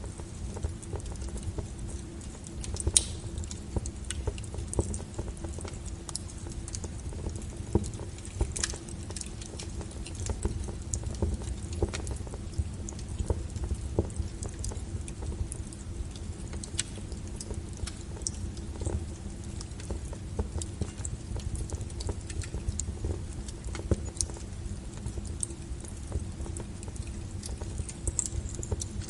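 Firewood fire burning: a steady low rumble of the flames with irregular sharp crackles and pops, one louder pop about three seconds in.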